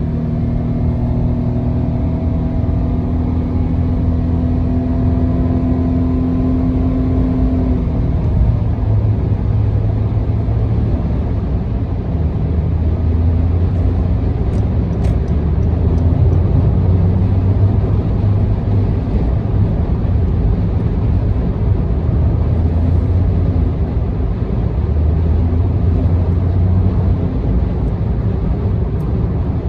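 Car driving on an expressway, heard from inside the cabin: a steady low rumble of engine and tyre noise. A steady hum with overtones runs alongside it and stops about eight seconds in.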